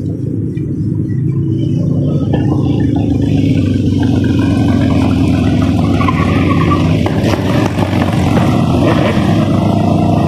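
Car engine and road noise while driving, growing louder over the first couple of seconds as the car speeds up, then running steadily.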